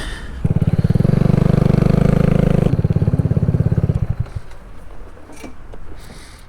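Kawasaki Z125's single-cylinder engine through an aftermarket exhaust, running hard under throttle for about two seconds. Then the throttle closes suddenly and the revs die away.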